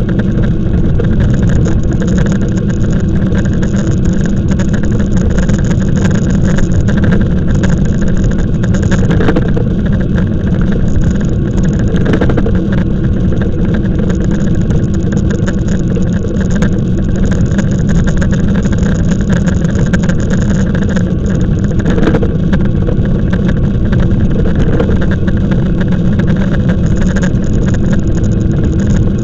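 Steady wind rumble buffeting the microphone of a camera riding on a moving e-bike, loud and unbroken, with faint steady tones above it.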